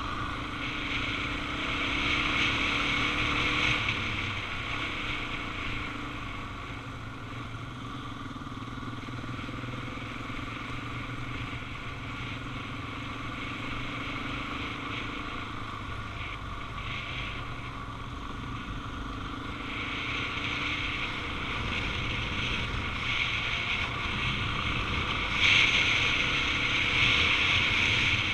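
Suzuki DR-Z400 motorcycle's single-cylinder engine running under way, with wind rushing past. It gets louder about two seconds in and again near the end.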